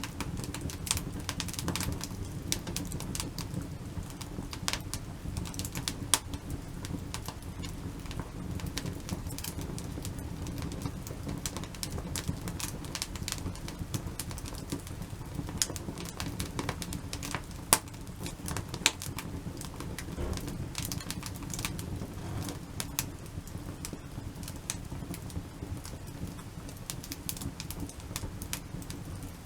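Wood fire burning in a campfire of crisscrossed logs, crackling with irregular sharp pops over a steady low rumble; one pop a little past the middle is louder than the rest.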